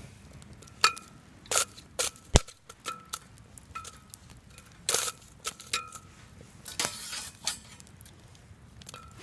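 Irregular metallic clinks and sharp clicks, about a dozen, several with a brief ring.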